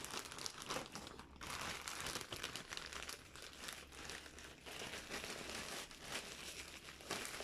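Plastic packaging being crinkled and handled while a parcel is unwrapped, with irregular crackles and rustles and a few short tearing sounds.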